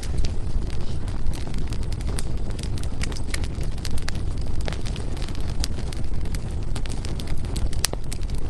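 Firewood burning, with a steady low rumble under frequent sharp crackles and pops, one louder pop near the end.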